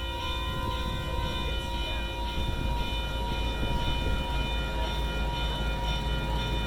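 A passing train: a steady low rumble with several thin, steady high tones held over it.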